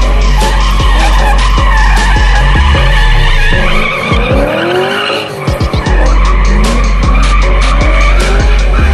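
Drift cars sliding with tyres squealing, engines revving hard, the engine pitch rising and falling about midway through.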